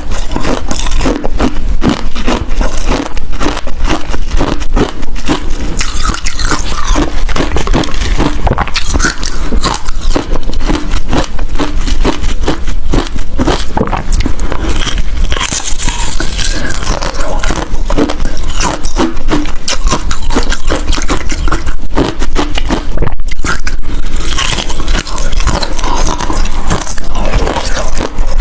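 Ice being bitten and chewed close to the microphone: a continuous dense run of loud, sharp crunches and cracks, with a short lull a little before the end.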